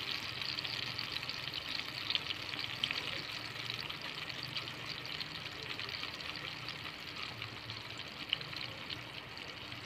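Food frying in a black wok of hot oil: a steady sizzling hiss with fine crackles from the bubbling oil, easing slightly toward the end.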